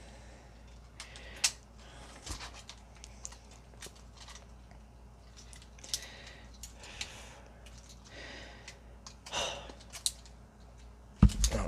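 Plastic parts of a Transformers Legacy United Sandstorm toy figure clicking and scraping as it is handled and transformed, with scattered small clicks and soft rubbing, and a heavier knock near the end.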